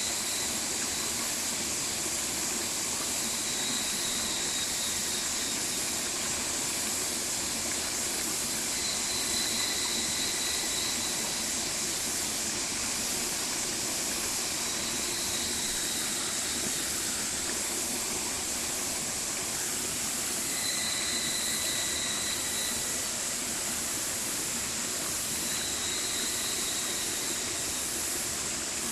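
Mountain stream flowing: a steady rush of running water. A faint, drawn-out high tone comes and goes about six times.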